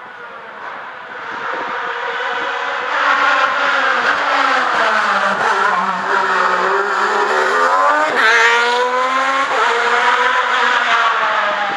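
Race car engine at hard load on a hillclimb, its pitch sagging and then sweeping sharply up about eight seconds in as it revs through the gears. It grows louder over the first few seconds as it approaches.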